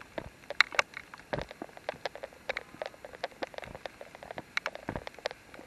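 Scattered raindrops tapping irregularly on a nearby surface, several sharp distinct drops a second over a faint hiss.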